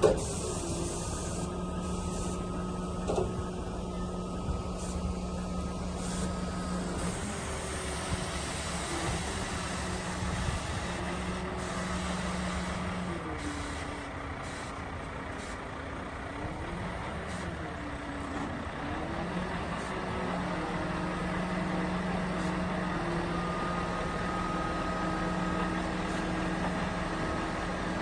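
Engine running steadily, its note dipping and rising several times about halfway through, with a sharp click at the very start.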